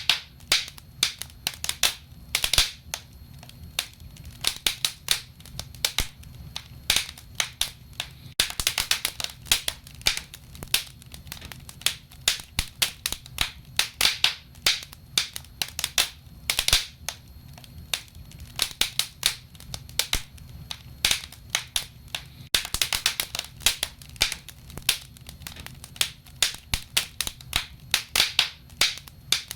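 Wood fire burning in a stove, crackling with many irregular sharp pops and snaps, some in quick clusters, over a faint low rumble.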